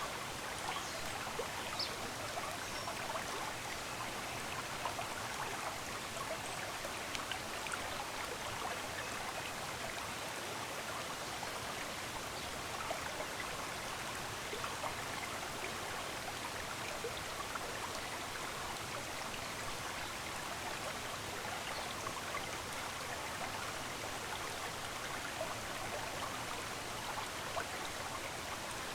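Running water in a stream, flowing and trickling steadily without a break.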